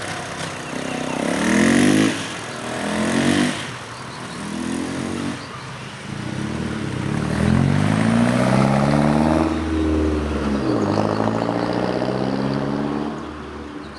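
United Motors UM 200 dual-sport motorcycle engine revving up in pitch several times in quick succession as it accelerates through the gears. It then makes a long climb in pitch, drops, climbs again, and grows quieter near the end.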